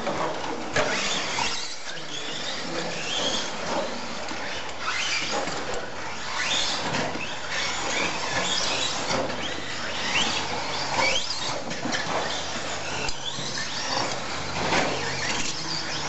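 Several radio-controlled stadium trucks racing, their motors whining up and down in pitch again and again as they speed up and slow down, several at once and overlapping.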